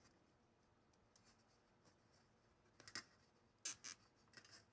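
Cable tie being fitted around wires: near silence, then a few short, faint clicks and rustles from about three seconds in.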